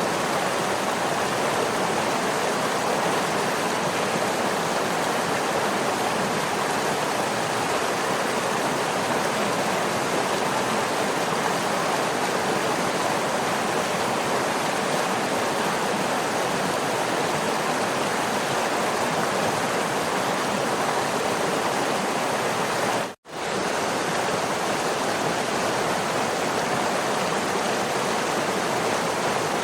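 Waterfall: a steady, even rush of falling water, with one split-second gap of silence about three-quarters of the way through.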